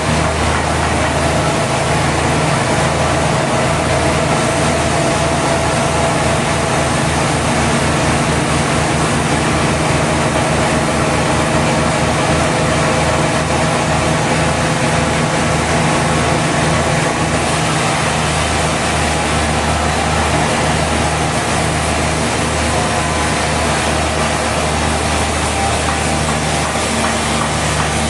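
Sawmill machinery running steadily, a loud continuous mechanical drone with a deep hum underneath.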